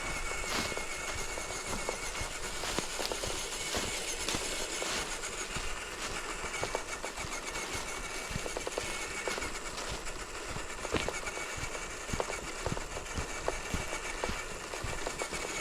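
RC scale crawler truck driving: its small electric motor and gears give a steady whine, with many small clicks and crackles from the trail throughout.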